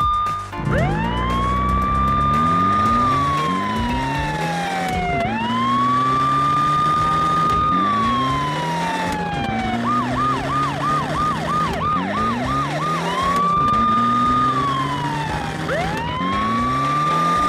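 Police siren sound effect wailing in long rising-and-falling cycles, switching about ten seconds in to a rapid yelp of roughly three warbles a second, then back to the slow wail.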